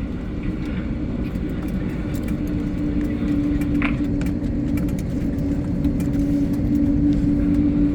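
Jet airliner cabin noise while taxiing after landing: a steady low rumble with a steady engine hum that grows stronger a couple of seconds in, the whole slowly getting louder.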